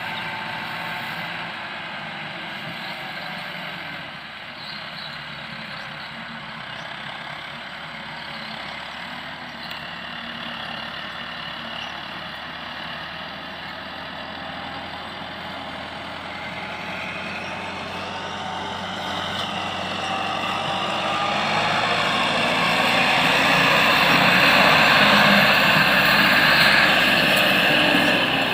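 Heavy engine-driven farm machinery running steadily, growing louder over the last third.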